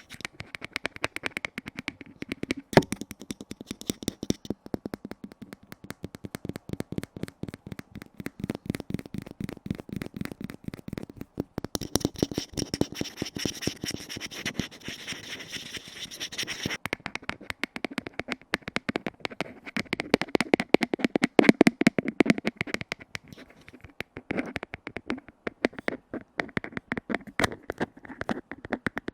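Fingertips tapping rapidly on container lids, the taps closely spaced and continuous. For a few seconds in the middle the tapping sounds brighter and scratchier.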